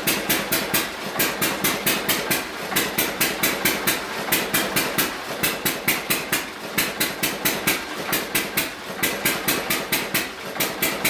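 1924 John Deere E-series single-cylinder hit-and-miss engine running under full generator load, barking out a fast, even run of sharp strokes. A few short gaps break the run: many hits in a row, then a miss, as the governor lets it fire nearly every cycle to carry the load.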